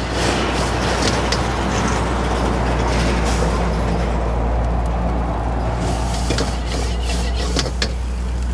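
Steady low mechanical hum under a rushing noise, with scattered clicks and knocks.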